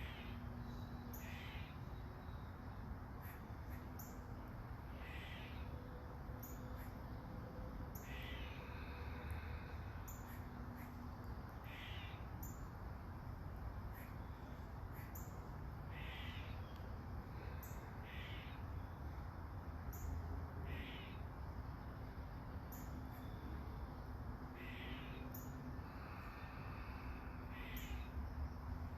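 A bird calling over and over, short calls every few seconds, over a steady low background rumble.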